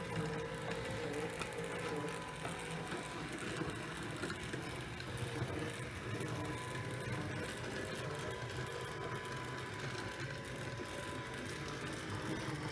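O gauge model locomotive running in reverse over 3D-printed track and turnouts: a steady electric motor whine with scattered faint clicks from the wheels on the rails.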